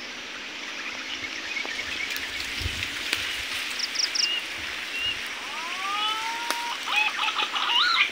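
Steady outdoor hiss with a few short bird chirps, then several rising whistled bird calls about six seconds in.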